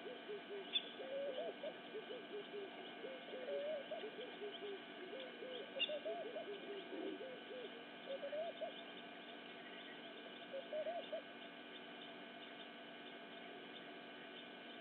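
Birds calling with many short, low, rising-and-falling cooing notes, several a second, that die away about eleven seconds in, over a faint steady hum.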